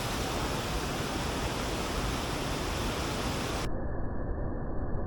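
Waterfall and rushing water, a steady even roar. About three and a half seconds in, the sound turns suddenly muffled, losing all its hiss.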